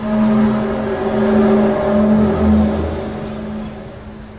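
Loud, low droning tone with overtones, in several long swells that fade out near the end: one of the mysterious 'strange sounds in the sky' recordings.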